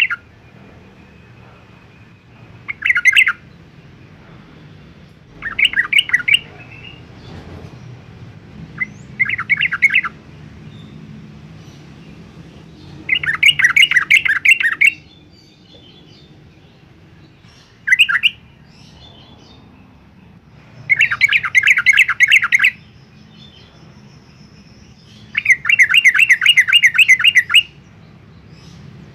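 Yellow-vented bulbul singing: seven phrases of fast repeated notes, some brief and some about two seconds long, separated by pauses.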